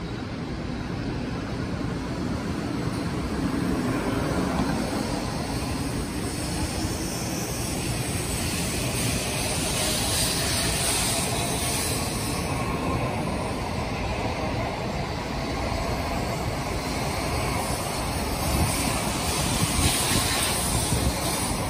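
N700-series Shinkansen train accelerating away from the platform as its cars pass close by: a steady rush of wheel and air noise that builds gradually, with a faint whine rising in pitch as it gathers speed.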